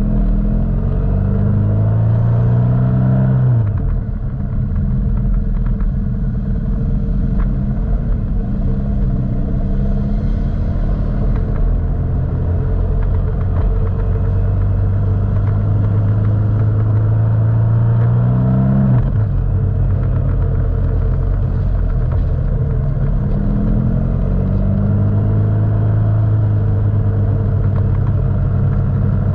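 Motorcycle engine running under way, its pitch climbing slowly and then dropping sharply at gear changes, about four seconds in and again past halfway.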